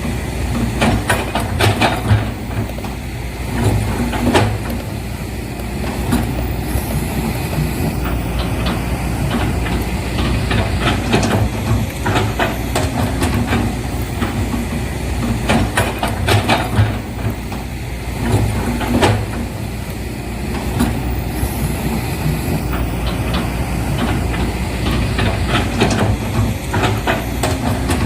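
Steady low engine-like rumble with scattered clicks and knocks, the same stretch of sound seeming to repeat about every fourteen seconds.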